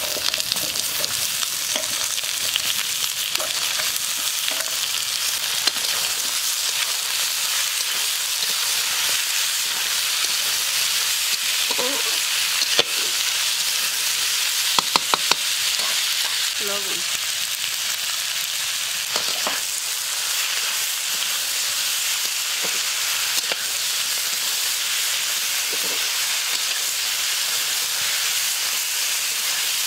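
Matchstick-cut potatoes sizzling steadily in hot oil in a steel wok, stirred with a metal spatula that clicks against the pan now and then, with three quick taps about halfway through.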